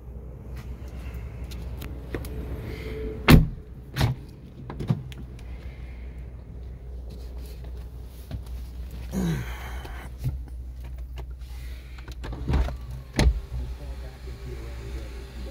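Inside a Jeep's cabin: the engine idling with a steady low hum, overlaid by a few sharp knocks and clicks. The loudest knocks come about three seconds in and again near the end, with a brief rustle in the middle.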